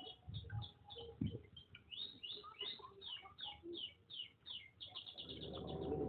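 A small bird chirping over and over in quick, short chirps that slide downward, several a second. A few low thumps come in the first second, and a low hum with steady tones grows louder over the last second.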